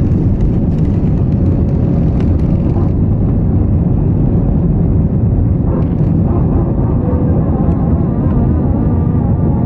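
Airliner engines and airframe heard from inside the cabin during takeoff: a loud, steady, deep rumble with a continuous rushing noise over it.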